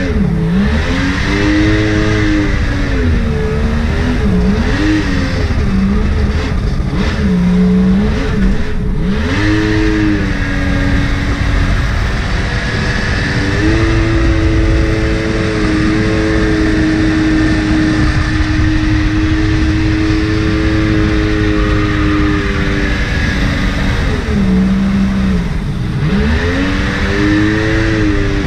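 Mini jet boat's Yamaha 1100 three-cylinder two-stroke engine running hard, revved down and up several times, then held steady at high throttle for about ten seconds before easing off and climbing again near the end.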